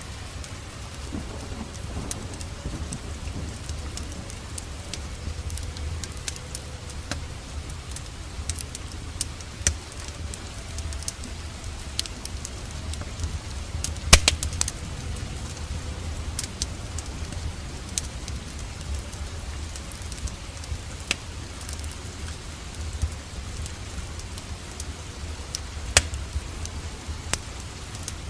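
Steady rain falling, mixed with a fireplace fire crackling: scattered sharp pops, the loudest about halfway through, over a steady low rumble.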